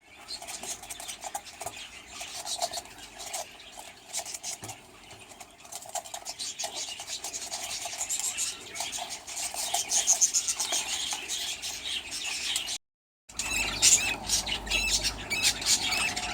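Flock of small aviary birds chattering, with dense, rapid high chirps and twitters. The sound breaks off for a moment near the end, then the chatter resumes over a faint low hum.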